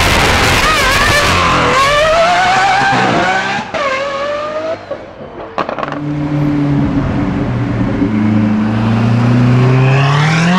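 High-performance car engine accelerating hard. Its pitch climbs and drops back at gear changes about two and four seconds in. It lifts off around five seconds in with a couple of sharp cracks, then pulls again from low revs and climbs steeply near the end.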